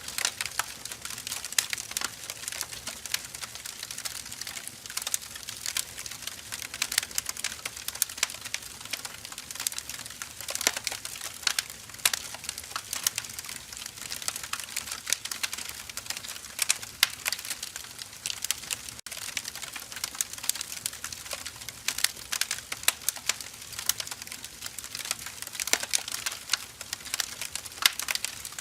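Firewood logs burning with continuous, irregular crackling and snapping pops.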